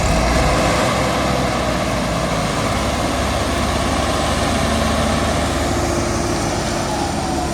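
Tractor engine running steadily and loudly, with a deep engine hum under a wide noisy wash.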